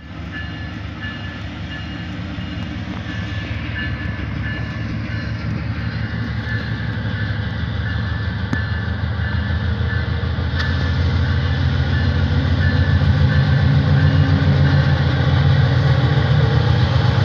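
Diesel locomotive at the head of a passenger train approaching. Its low engine hum grows steadily louder as it nears, with a faint repeating high beep sounding over it.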